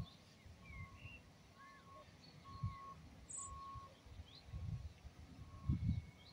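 Small birds chirping and calling with short rising and falling notes, and a short steady note repeating about once a second. Irregular low rumbles underneath, strongest near the end.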